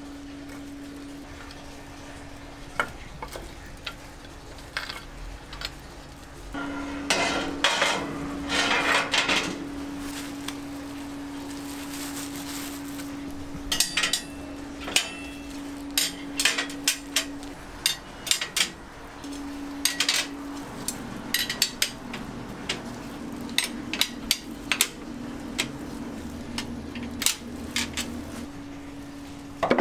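Irregular clinks and knocks of hard objects, in quick clusters, over a steady low hum.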